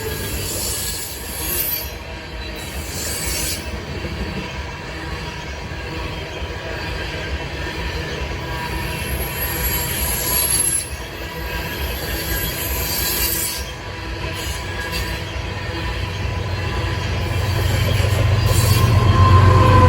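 Loaded coal train hopper cars rolling past, a steady heavy rolling noise with high-pitched wheel squeal that comes and goes. A low rumble grows louder near the end.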